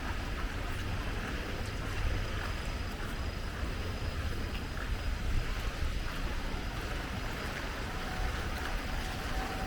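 Steady rain falling, an even hiss over a constant low rumble.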